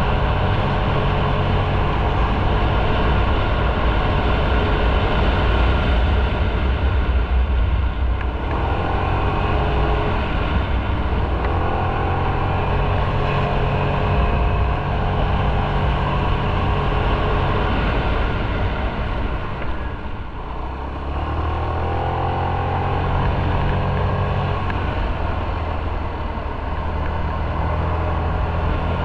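Motorcycle engine running on the move, its pitch shifting with throttle and gear changes, over steady wind and road noise. It eases off briefly about twenty seconds in, then picks up again.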